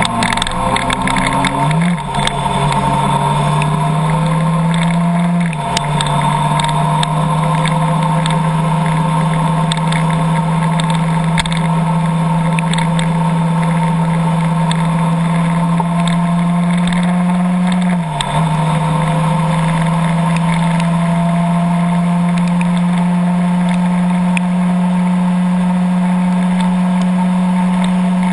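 A vehicle engine running at a steady note, its pitch briefly dropping and climbing back three times, as at gear changes: once about two seconds in, again a few seconds later, and again past the middle.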